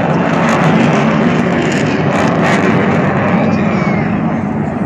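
Dassault Mirage 2000's single SNECMA M53 turbofan running loud and steady as the jet flies a slow, nose-high pass.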